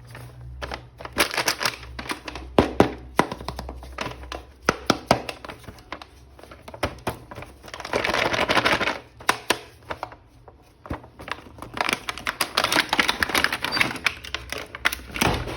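Hands handling small plastic toy parts: rapid, irregular clicking and clattering, with stretches of denser scratchy rustling about eight seconds in and again from about twelve seconds.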